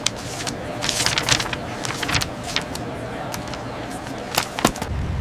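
A string of sharp clicks and clacks, then near the end the low, pulsing drone of a B-17's radial aircraft engine starts up and runs steadily.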